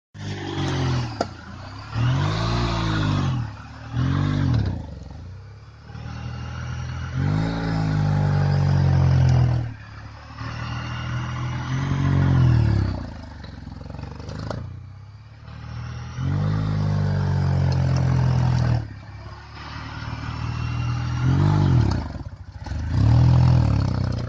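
Engine of a buggy built from an old Oka microcar, revving hard and easing off again and again, its pitch climbing and falling about seven times, with a few knocks and rattles.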